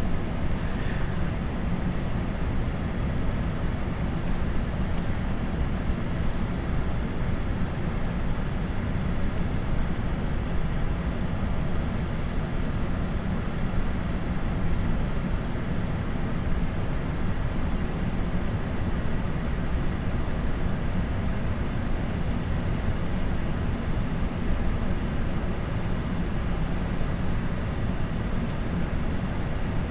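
Steady rumble of airflow and engines inside a Boeing 747-400 cockpit on final approach, with the gear down and flaps extended. There are no distinct events.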